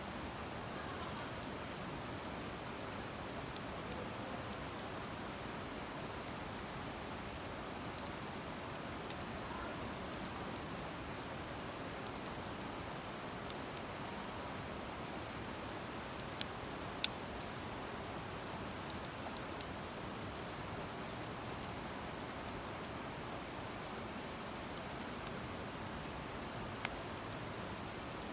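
Wood campfire burning, with sparse sharp crackles and pops from the firewood over a steady rushing background noise. The loudest pop comes about two-thirds of the way through.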